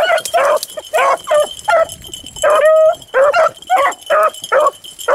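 Beagles baying as they run a rabbit: a quick string of short, pitched hound barks about two to three a second, with one longer drawn-out bawl near the middle.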